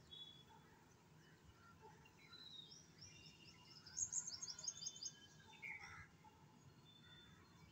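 Small birds chirping in the background, with a quick run of high chirps about four seconds in.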